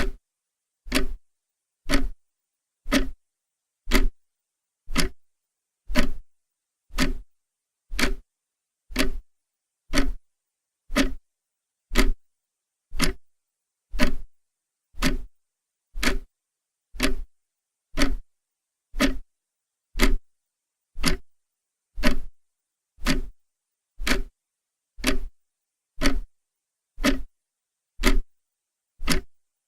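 Clock ticking steadily, one sharp tick each second, with silence between the ticks.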